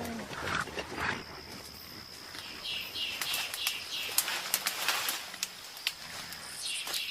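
Forest ambience: a steady high-pitched insect drone, a bird calling in short repeated notes, and scattered sharp clicks and snaps.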